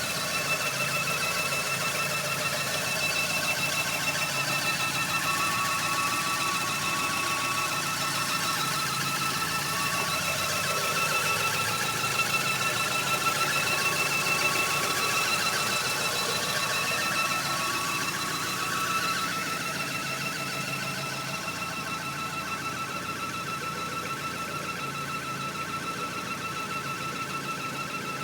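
Audi 80's 2.0-litre 8-valve four-cylinder (3A) engine running with a steady high-pitched whine laid over it: the strange noise the owner is asking about, which he tags as a whine and a possible belt problem. It gets slightly quieter about two-thirds of the way through.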